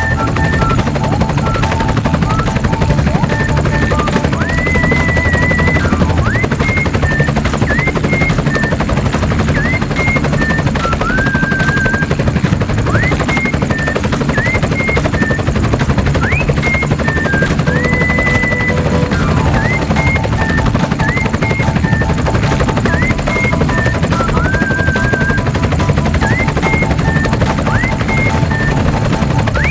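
Helicopter rotor chop, steady and rapid throughout, with short rising electronic chirps and beeps laid over it.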